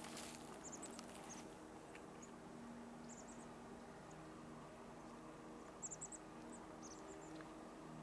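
Small birds in a pine giving faint, very high, thin squeaky calls in quick clusters of two to four notes, several times over, above a steady low hum.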